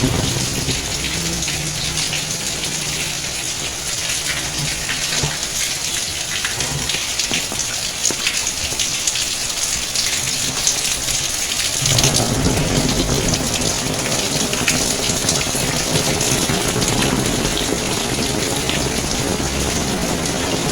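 Steady rain falling, with close raindrops ticking. About twelve seconds in, a low rumble joins the rain and stays.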